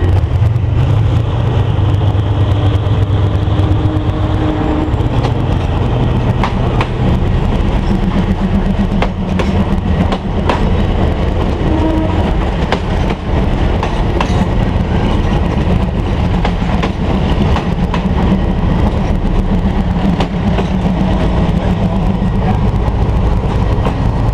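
State Railway of Thailand diesel railcar train rolling past along a station platform, its diesel engines giving a steady low drone. The wheels click over the rail joints as the cars go by, most plainly through the middle.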